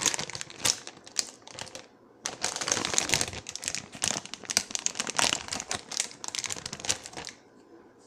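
Plastic packaging crinkling and rustling as it is handled, in irregular crackles with a brief pause about two seconds in, dying away near the end.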